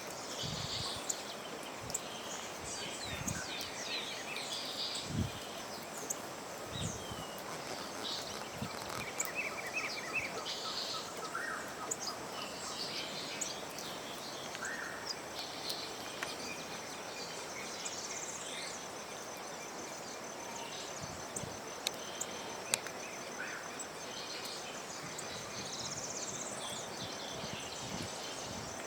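Small birds chirping and calling in short, scattered notes, with a high, steady insect trill joining about halfway through.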